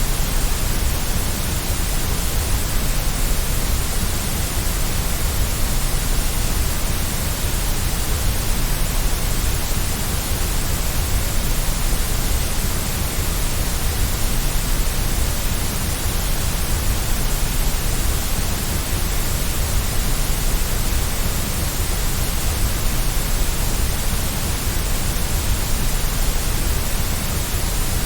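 Steady white noise, an even, unbroken hiss over a deeper low rumble, with no change in level.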